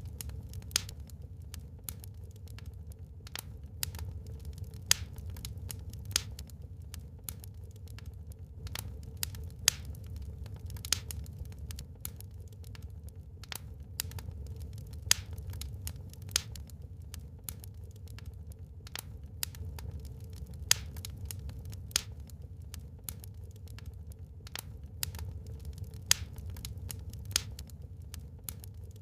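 Wood fire burning in a fireplace, crackling with irregular sharp pops, a louder snap every second or two, over a steady low rumble.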